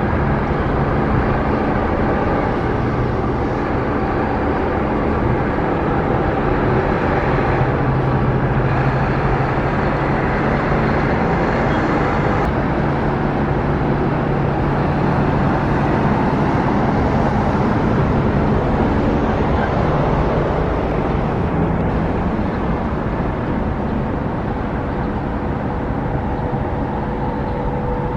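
Steady road-traffic noise: vehicle engines running with a low hum and tyre noise on a city street.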